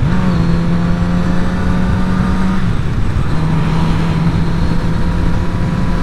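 Motorcycle engine running under way through a slow U-turn, its note dropping and picking up again right at the start and once more about two and a half seconds in. Wind and road rush run underneath.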